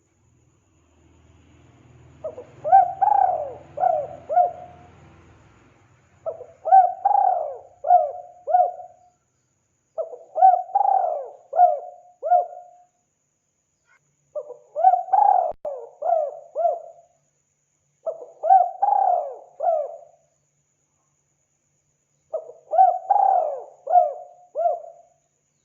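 Spotted dove (tekukur) cooing: a phrase of several rolling coos, repeated about every four seconds, six times. A faint low hum sits under the first few seconds.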